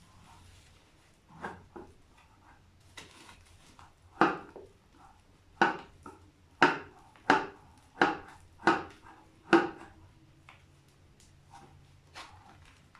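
A series of sharp knocks and taps on a disassembled brake booster: a few light taps, then about seven loud knocks less than a second apart, then a couple of faint taps near the end.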